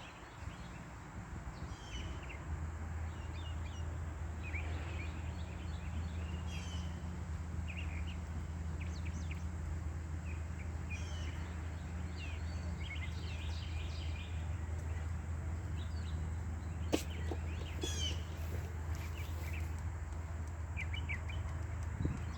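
Wild birds chirping and calling on and off, over a steady low hum that sets in about two seconds in. A single sharp click comes about three-quarters of the way through.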